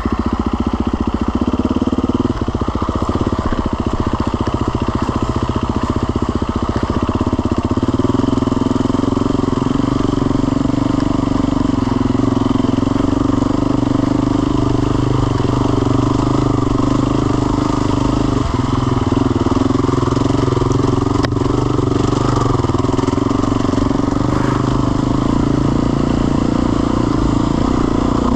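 Motorcycle engine running steadily at a near-constant speed, with a small change in pitch about eight seconds in.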